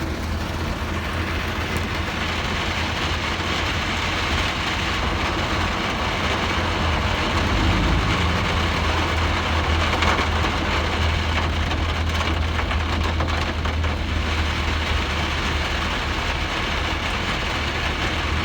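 Steady rain falling, a continuous hiss, over a steady low engine hum.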